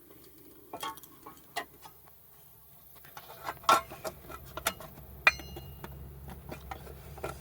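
Metal engine parts and hand tools being handled: scattered clicks, knocks and clinks. One sharper metallic clink about five seconds in rings briefly.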